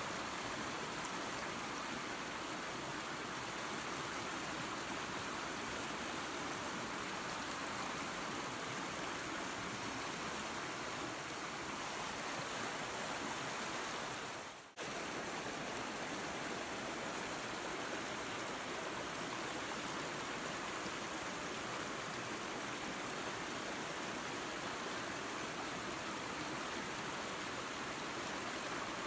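Waterfall and creek water running, a steady rushing noise. About halfway through it cuts out for a split second and comes straight back.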